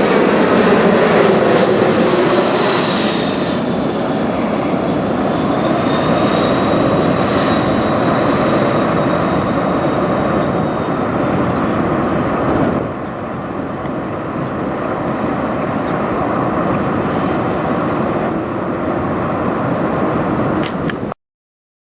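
Cessna Citation Latitude business jet flying overhead, its twin turbofan engines giving a loud rushing roar with a whistling whine that slowly falls in pitch as it passes. The sound drops somewhat about two-thirds of the way through and cuts off abruptly near the end.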